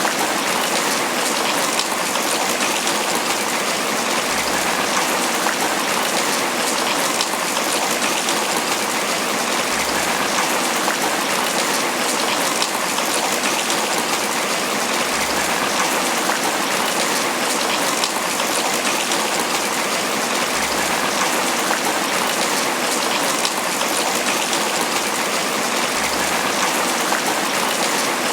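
Tropical rain falling steadily on banana leaves: an even, dense patter of drops.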